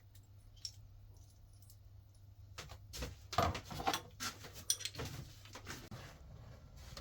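Small metal parts clinking and knocking, a quick series of sharp clicks starting about two and a half seconds in, as a VW air-cooled engine's rocker shaft assembly is handled and offered up to the cylinder head.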